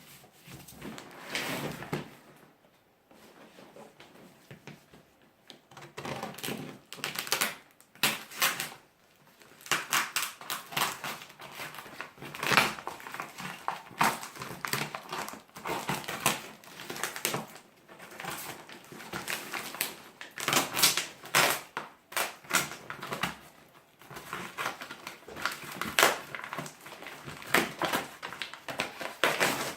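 Irregular clicking, knocking and crinkling of things being handled at close range, with no motor running; quieter for the first few seconds, then busy and dense from about six seconds in.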